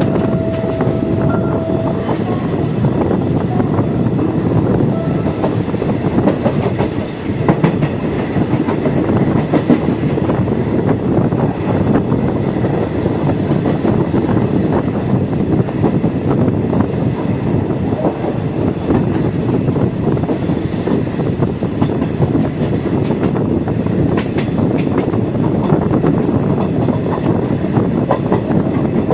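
Passenger train running on the rails, heard from aboard: a steady rumble with the wheels clattering over the rail joints. A short steady tone sounds in the first couple of seconds.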